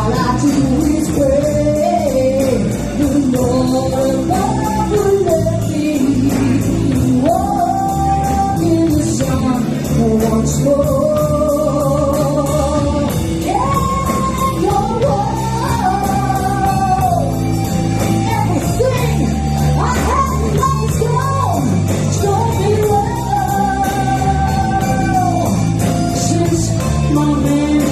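Live blues band playing, with a voice singing long, held notes that bend in pitch over the band's steady backing.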